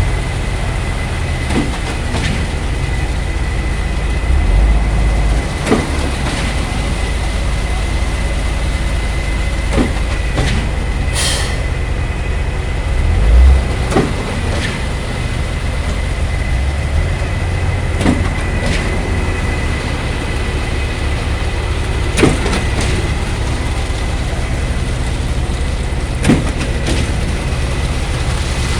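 Truck-mounted concrete pump working, its diesel engine running steadily under load, with a sharp clunk about every four seconds as the pump changes stroke while pushing concrete.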